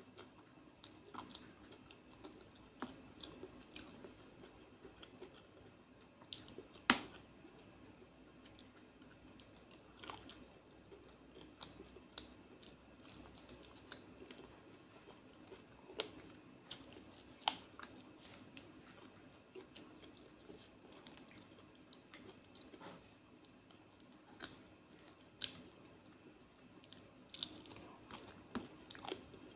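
Close-miked chewing and mouth sounds of someone eating fried fish and rice by hand, with scattered sharp clicks and crunches; the loudest comes about seven seconds in.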